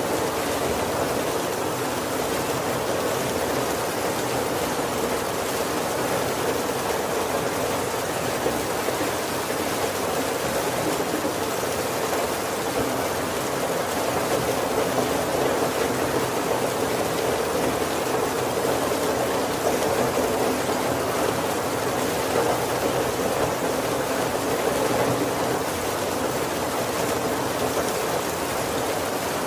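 Steady heavy rain drumming on a wooden roof, heard from inside, a dense even patter with no thunder.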